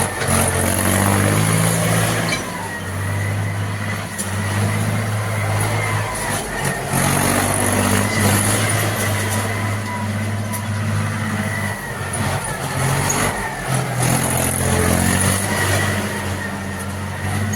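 Tractor engine running steadily under load while driving a grain thresher, with a rushing noise and a faint high whine over the engine's low drone.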